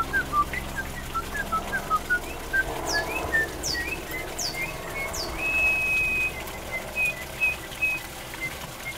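A bird chirping and whistling. It makes a quick run of short chirps, then four high whistles that fall in pitch, each about a second apart, starting about three seconds in. Near the middle it holds one steady whistle for under a second.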